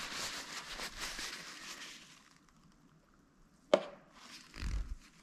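Faint handling noise of parts being worked on, then a single sharp click about three-quarters of the way in and a short low bump after it, as the camshaft bearing shells are fitted.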